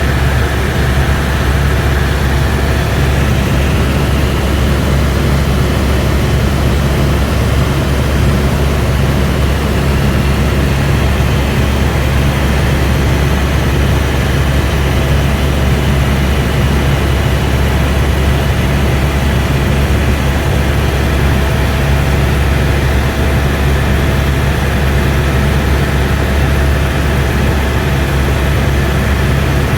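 Cabin noise of an AS350 B2 helicopter in flight: the single turboshaft engine and rotors running at a steady, loud drone with a deep hum and a faint constant whine, no change throughout.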